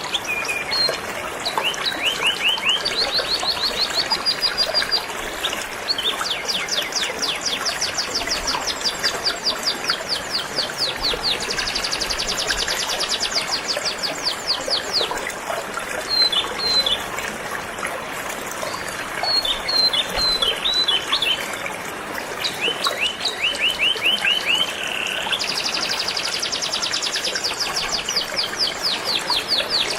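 Domestic canary singing in long runs of rapid repeated trilled notes, switching to a new phrase every few seconds, over the steady rush of a flowing river.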